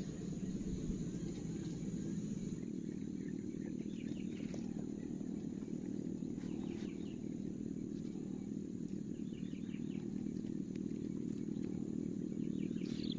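Short runs of high bird chirps, four or five times a few seconds apart, over a steady low background rumble.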